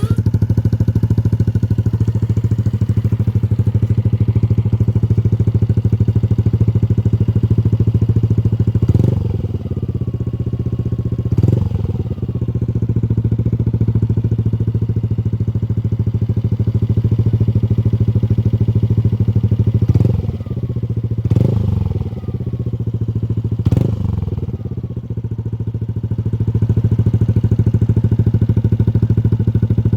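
Yamaha Aerox 155 scooter's single-cylinder engine idling through a Nob1 Titan Series aftermarket muffler with the silencer removed, a steady loud bassy exhaust note. The throttle is blipped five times in the middle, each short rev dropping quickly back to idle.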